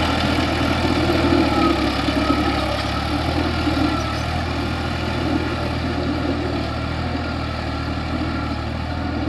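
New Holland tractor's diesel engine running steadily at an even engine speed.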